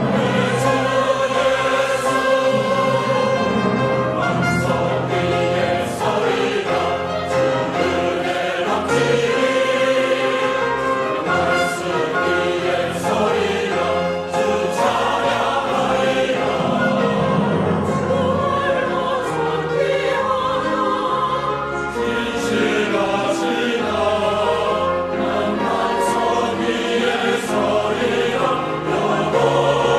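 Church choir singing a sacred anthem with instrumental accompaniment, continuous and full throughout.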